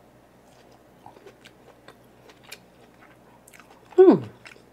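Close-miked, soft wet chewing of boiled pork and fried vermicelli, with small scattered clicks. About four seconds in comes a short closed-mouth "mmm" from the eater that falls steeply in pitch.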